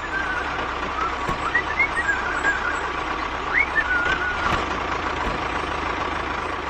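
Vehicle engine running steadily with a low hum, while birds chirp now and then.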